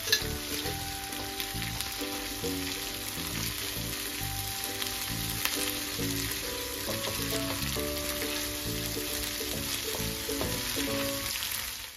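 Onion paste with ginger-garlic paste sizzling steadily in hot oil in a frying pan as it is stirred with a wooden spatula, being browned to dark brown. Soft background music of held notes plays underneath.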